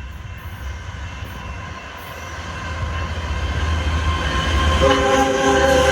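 Union Pacific GE ES44 diesel locomotives approaching, their low rumble growing louder. About five seconds in, the locomotive's air horn starts sounding a steady chord.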